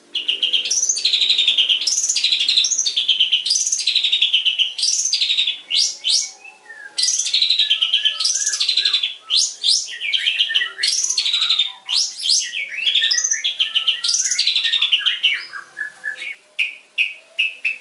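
Long-tailed shrike (cendet) singing loudly in harsh, buzzy phrases of about a second each, broken by short pauses. Near the end it goes into a fast run of rapid, clipped notes.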